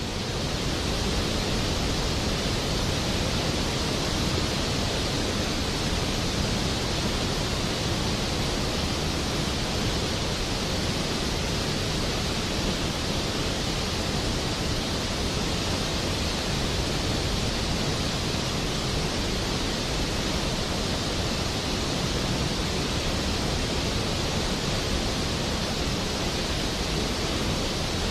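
Steady rain, an even hiss with no single drops, thunder or music standing out.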